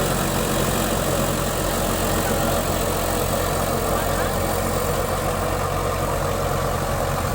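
Diesel tractor engine running steadily, with a continuous mechanical rush over the engine note.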